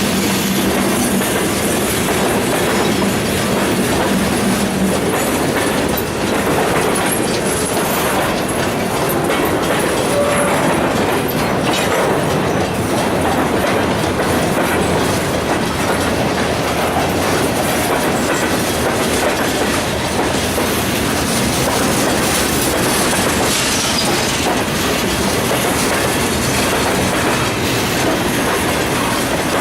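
Freight train rolling past, its wheels clicking over the rail joints in a steady continuous rumble.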